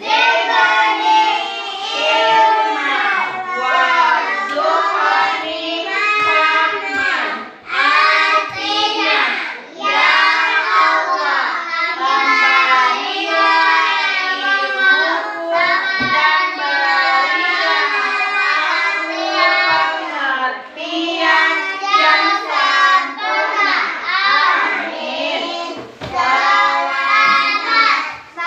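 A group of young children singing or chanting together in unison, with short breaths between phrases.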